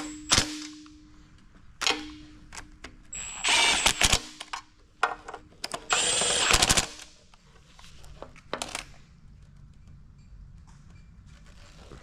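A power tool runs in two short bursts of about a second each with a steady whine, among scattered clicks and knocks.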